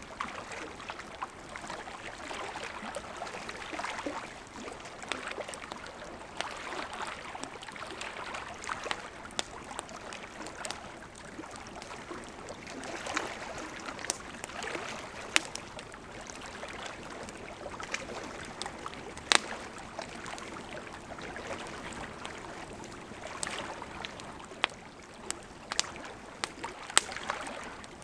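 Campfire of burning wood crackling: a steady hiss of flames with frequent small pops and a few louder sharp snaps scattered throughout.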